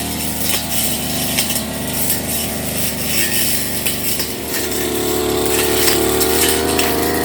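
Firman FGB389FI brush cutter's engine running at working speed, revving higher about two-thirds of the way through, with the sharp ticking and clatter of its cutting head striking grass and debris.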